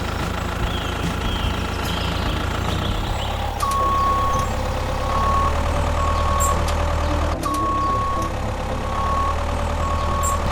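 Truck engine running steadily with a reversing alarm beeping over it. The beeping starts about a third of the way in, as a longer beep followed by several short ones, and the pattern repeats a few seconds later.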